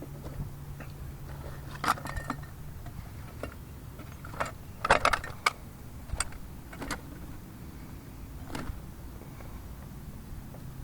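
Irregular clicks and small rattles of plastic parts and a bagged fish weight being handled on a radio-control rock crawler, busiest about halfway through. A low hum stops about two seconds in.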